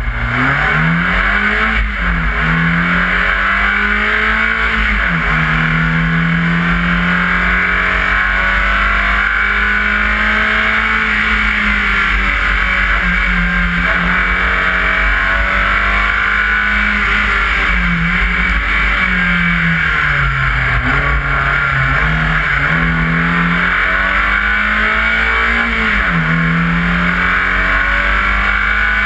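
BMW 318is rally car's four-cylinder engine launching from a stage start and accelerating hard. The engine note climbs, drops at a quick gear change and climbs again in the first few seconds. After that it runs at high revs, dipping and rising again at lifts and shifts later on.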